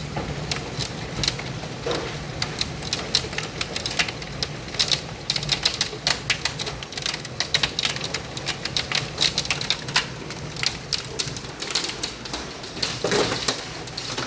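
Hailstones striking hard surfaces in a dense, irregular run of sharp clicks.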